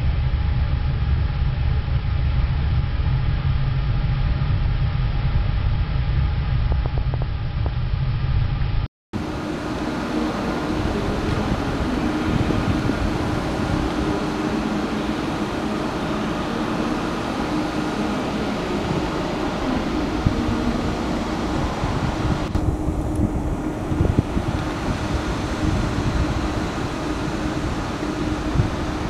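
Trains running with steady rumbling rail noise. About nine seconds in a hard cut switches to a second recording with a steady hum and a few sharp clicks.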